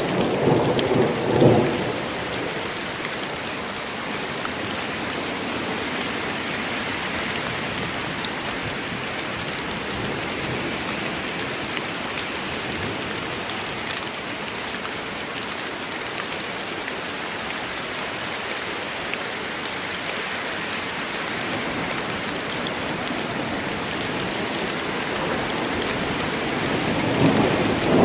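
Steady rainfall in a forest, a dense even hiss. Thunder rumbles low at the start and again near the end.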